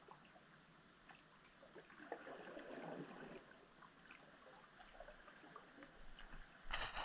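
Faint underwater ambience picked up by a submerged camera: a low hiss with scattered small clicks, a swell of noise about two to three seconds in, and a brief louder rush near the end.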